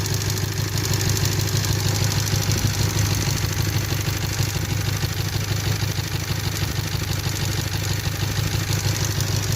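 A 1998 Toyota 4Runner's four-cylinder engine idling steadily with a misfire, which the mechanic traces to a spark plug wire arcing.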